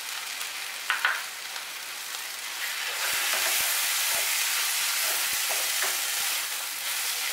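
Ground coconut paste sizzling in hot oil as a wooden spatula stirs it into frying banana flower in a kadai. A short clink comes about a second in, and the sizzle grows louder about three seconds in, with light knocks of the spatula against the pan.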